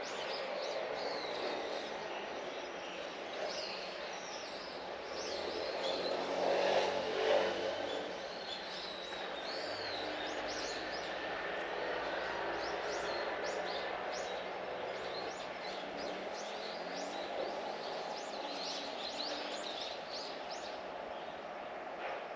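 Small birds chirping again and again over the steady drone of an engine, which swells about seven seconds in as a vehicle passes.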